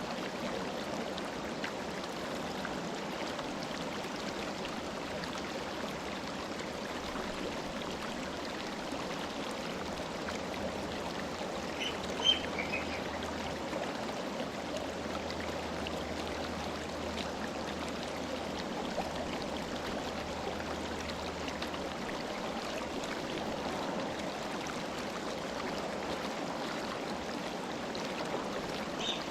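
River water flowing steadily over rocks, an even rushing sound. A bird gives a few brief chirps partway through.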